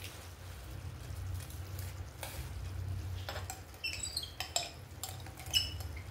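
A metal spoon clinking and scraping against a metal cooking pot several times, some strikes leaving a short high ring, over a steady low kitchen hum.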